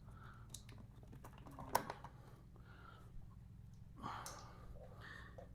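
Faint clicks and small taps of plastic terminal caps being pulled off a new motorcycle battery, with one sharper click a little under two seconds in, over a steady low hum.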